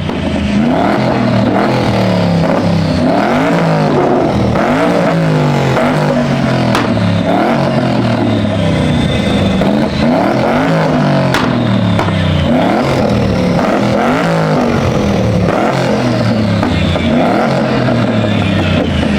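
Car engine being revved over and over, its pitch climbing and dropping about once a second.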